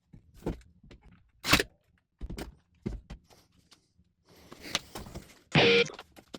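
Scattered knocks and clunks of wood and tools being handled, then a short, loud burst of a power drill near the end.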